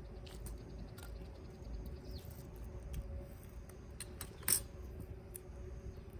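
Wood campfire burning hot, crackling with scattered small pops and one sharper pop about four and a half seconds in.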